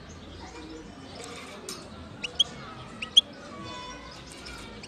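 European goldfinch singing: short, sharp rising chirps, the loudest about two and three seconds in, then a brief rapid trill.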